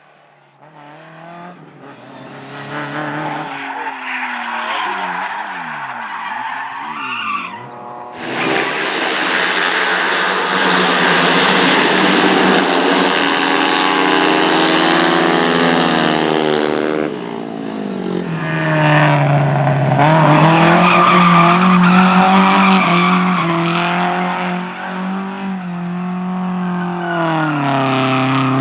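Race car engine revving hard, its pitch climbing and dropping with throttle and gear changes. About 8 seconds in the sound jumps to a loud rushing noise lasting several seconds, with the tyres skidding. A steadier, lower engine note follows and falls away near the end.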